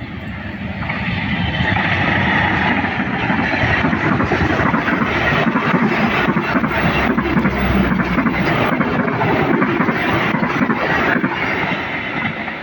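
Train passing close by: a loud rushing rumble that builds over the first two seconds, holds steady, and fades near the end, with brief sharp clicks from the wheels through the middle.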